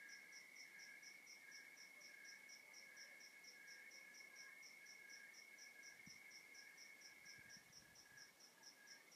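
Faint chorus of crickets calling: one trills steadily, another chirps about twice a second, and a higher-pitched one pulses about four to five times a second.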